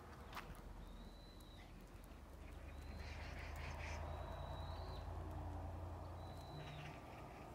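A bird whistling a thin, high note four times, each call under a second, over a low steady rumble that swells in the middle.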